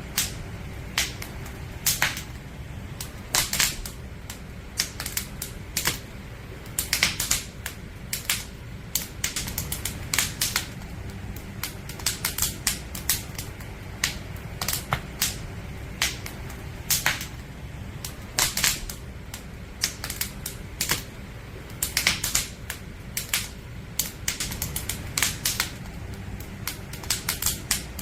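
Firewood campfire crackling: irregular sharp pops and snaps, several a second, over a low steady rumble.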